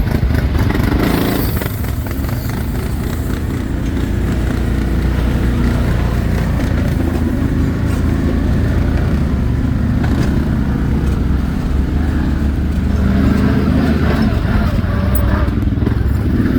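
ATV engine running steadily, with the engine note swelling louder about a second in and again near the end.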